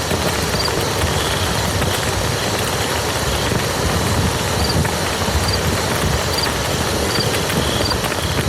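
Steady rain falling onto a muddy field, a dense patter of drops. Faint short high-pitched chirps recur every second or so.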